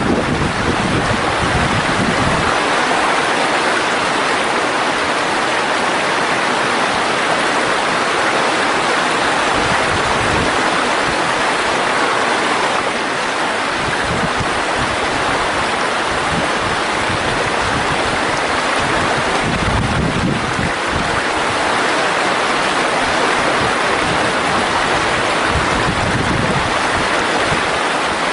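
Mountain stream rushing over rocks, a steady loud splashing and gurgling, with low gusts of wind buffeting the microphone now and then.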